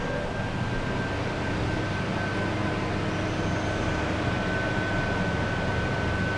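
Lift car travelling between floors: a steady low rumble of the ride with a thin, steady high-pitched whine from the drive.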